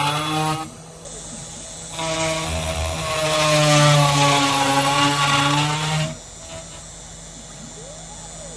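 Homemade CNC machine's spindle running with a steady whine while an end mill cuts silica fire brick, with a rough cutting noise over it. The cutting drops away under a second in, comes back about two seconds in and drops away again about six seconds in, leaving a quieter hum with faint tones that rise and fall.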